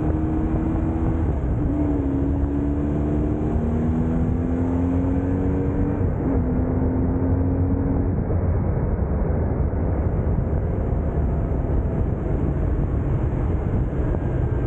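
BMW R1150GS Adventure's boxer-twin engine running while riding, over a steady low rumble. Its note climbs slowly and drops sharply twice, then fades into the rumble about halfway through.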